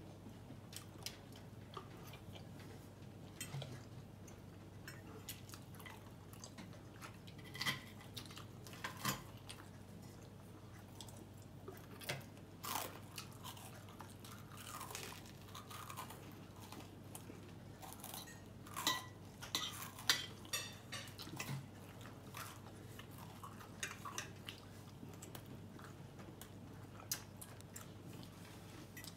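A person chewing food, with scattered short clicks and scrapes of a fork against a plate.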